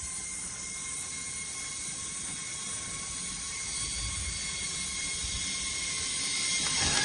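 Zipline trolley running along the steel cable, a steady whir with a high hum that slowly grows louder.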